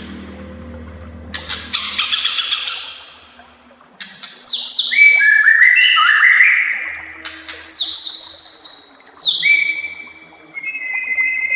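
White-rumped shama (murai batu) singing: a quick rattling chatter, then two runs of rapid down-slurred whistles, ending in held whistled notes.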